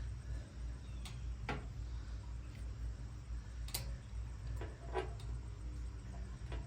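A few scattered light clicks and taps of small metal hardware being handled and positioned against the smoker lid, over a steady low hum.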